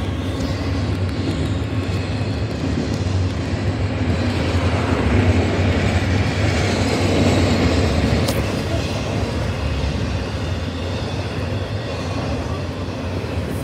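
CP double-stack intermodal freight train rolling past with a steady rumble, a little louder midway through.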